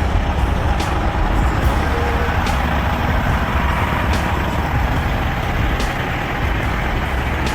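Heavy truck diesel engine running with a steady low rumble. Faint short clicks come about every second and a half.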